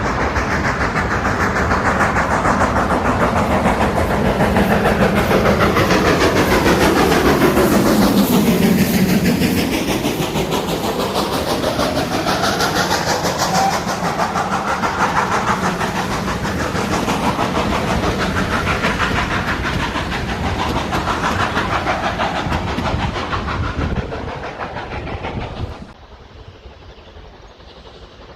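A train passing close by: a steady rumble and rail clatter that is loudest about eight seconds in as the locomotive goes past, then carries on as the coaches roll by. Near the end the sound drops off abruptly.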